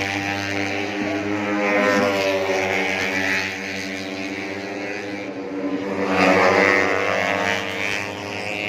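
Four-stroke 150cc underbone racing motorcycle engines running hard at high revs, getting louder about six seconds in as bikes come past.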